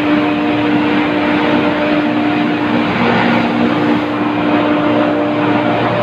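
Loud, steady machinery noise with a constant hum running underneath, unbroken throughout.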